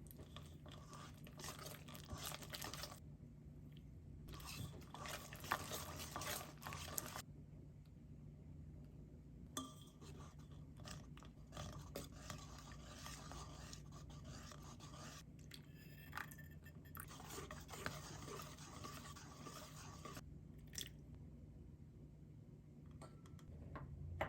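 Kitchen prep sounds: a utensil scraping and stirring in a bowl, in stretches of a few seconds, over a faint low hum.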